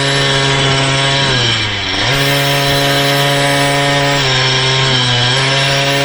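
Motorized bicycle's small engine running at steady high revs. The revs drop and come back up twice, about a second in and again around four to five seconds in.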